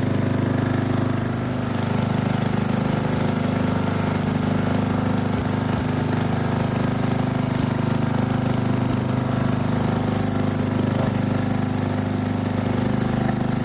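Briggs & Stratton engine of a 1997 MasterCraft (MTD) riding lawn mower running steadily while mowing grass, with a brief slight dip about a second and a half in.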